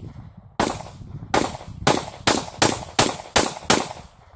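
Eight pistol shots from a .40 Smith & Wesson handgun fired in quick succession, about two to three a second, the gap shortening after the first shot.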